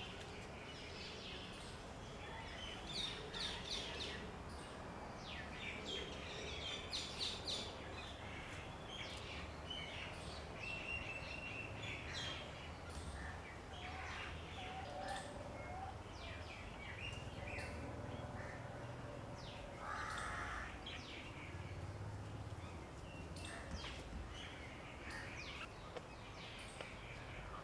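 Birds chirping and calling in many short notes, busiest a few seconds in, over a low steady background rumble.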